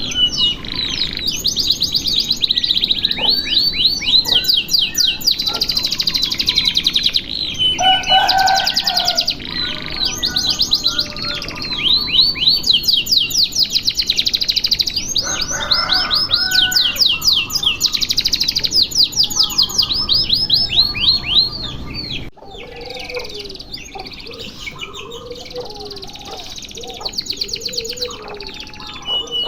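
Domestic canary singing long, unbroken runs of fast trills and rolls. About 22 seconds in the song breaks off abruptly and goes on quieter, with lower notes.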